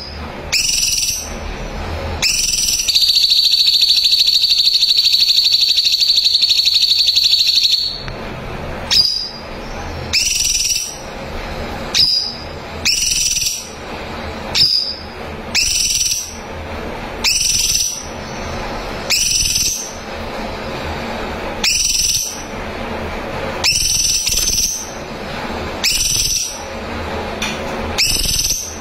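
Cucak cungkok calling: short rising whistled notes about every second and a half, with one long, loud buzzy trill lasting about five seconds from around three seconds in.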